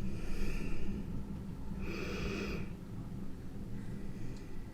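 A man breathing close to the microphone, two breathy exhales about two seconds apart, over a steady low hum.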